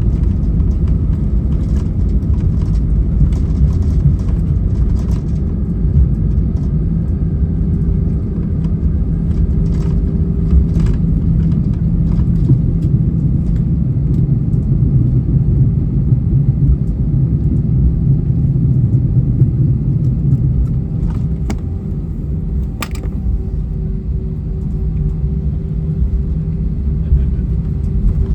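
Steady low rumble of an Airbus A320's cabin as it comes in to land or rolls out, with a faint steady hum and a few light clicks.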